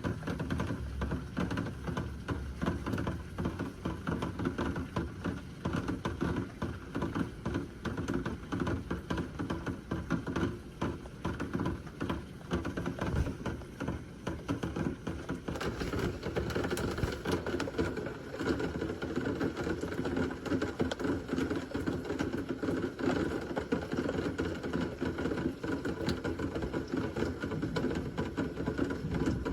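Rain falling steadily in a thunderstorm, a dense pattering of drops on nearby surfaces.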